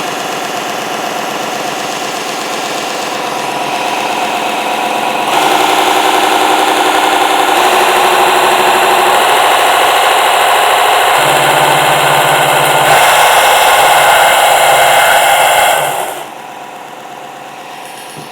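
Small electric mini belt sander with a variable-speed 12–24 V motor running with no workpiece, a steady motor whine with belt noise. It gets louder about five seconds in and drops back sharply near the end.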